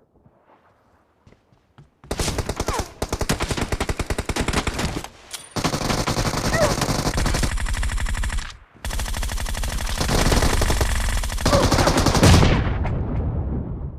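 A dense, rapid run of sharp cracks starts about two seconds in, with brief breaks, and fades out near the end.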